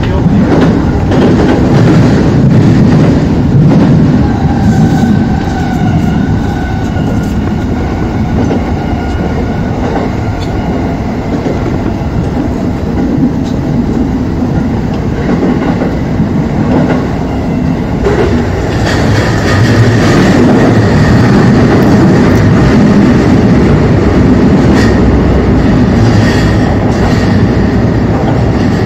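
Electric commuter train running through a tunnel, heard from the cab: a steady rumble of wheels on rail with scattered clicks. A faint whine comes in about five seconds in, and the running grows louder about two-thirds of the way through.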